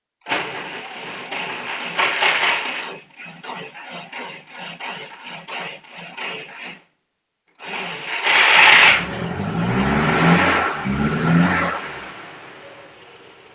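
Starter motor cranking a GAZ-M20 Pobeda's four-cylinder side-valve engine, with an even pulsing of about three beats a second, on its first start after some 20 years standing. After a short break the engine catches and is revved twice with rising pitch, then settles toward idle.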